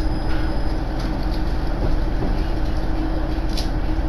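Steady low rumble and hum of a Koumi Line diesel railcar running, with a brief light tick near the end.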